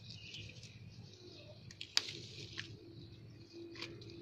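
Faint outdoor birdsong and chirping, with a few short sharp clicks, the loudest about two seconds in.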